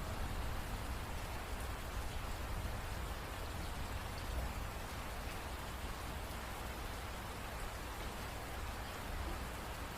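Steady rain falling and pattering on a surface, an even hiss with a low rumble underneath.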